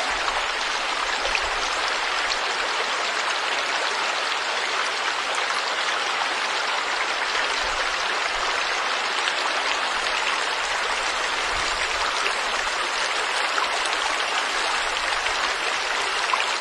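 Forest stream flowing steadily: an even rush of running water, with faint splashes and droplets in it.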